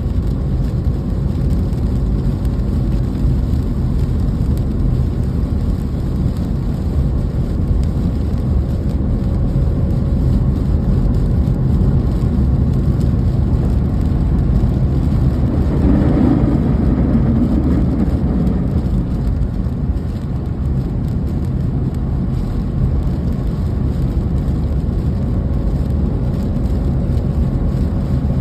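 Steady rain over a deep, constant rumble with a faint steady hum. The sound swells briefly about sixteen seconds in.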